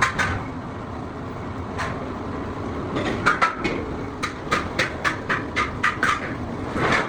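Workshop background noise with sharp knocks, a few scattered at first, then a regular run of about three a second from a little past halfway, typical of metal being struck during fabrication.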